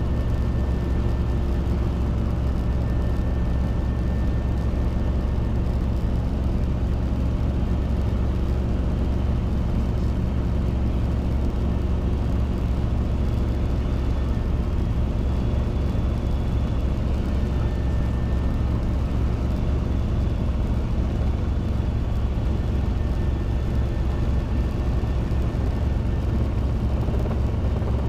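Robinson R22 helicopter's piston engine and rotors running steadily: a constant low drone with evenly stacked tones.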